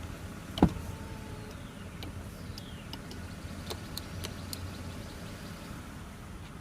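Steady low rumble of vehicle noise, with a single sharp thump a little over half a second in and a few faint clicks.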